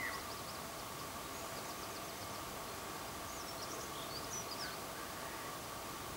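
Small birds calling faintly: runs of short, high-pitched notes, with a chirp at the start and a twittering flurry about halfway through, over a steady background hiss.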